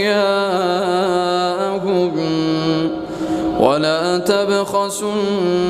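Male voice reciting the Quran in melodic tajweed style, drawing out long ornamented vowels with pitch turns. About three and a half seconds in, he starts a new phrase with a rising pitch.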